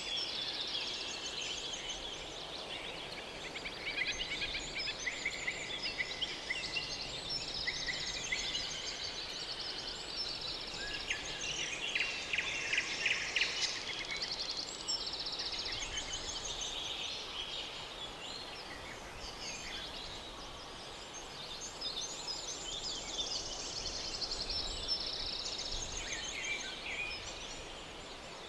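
A dense chorus of overlapping high chirping and rapid trilling calls from many birds, with no pause.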